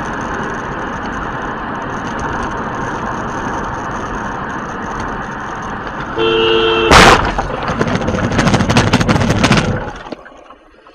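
Steady road noise, then a car horn sounds briefly about six seconds in, followed at once by a loud crash impact and about three seconds of crunching and scraping of a vehicle collision, which cuts off abruptly.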